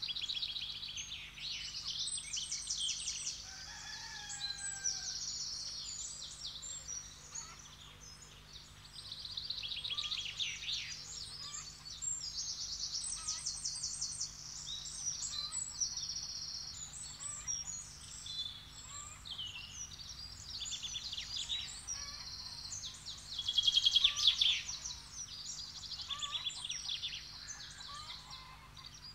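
Several birds singing and chirping over one another, with rapid high trills in phrases of a second or two and a few short whistled slides; the loudest burst comes about two-thirds of the way through. A faint steady low hum lies underneath.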